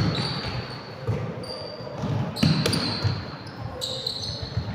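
Basketball game play on a gym court: a ball bouncing with repeated low thuds, sneakers squeaking on the floor, and players' voices calling out, echoing in a large hall.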